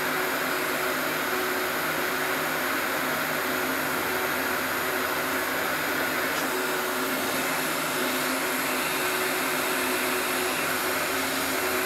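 Heat gun blowing steadily, its fan running with a faint hum, as it heats a dented aluminum hood panel.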